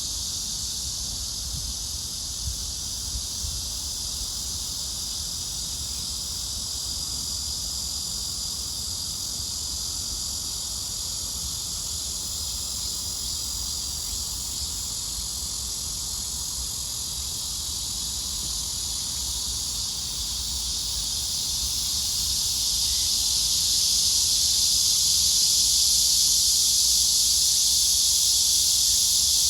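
A chorus of cicadas singing in summer trees: a dense, steady, high-pitched buzzing drone that swells louder about two thirds of the way through and stays there. A faint low rumble sits underneath.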